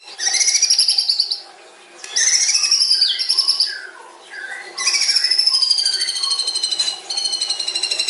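White-rumped shama (murai batu) singing long, rapid trilled phrases, three of them, the last and longest slowly falling in pitch from about five seconds in.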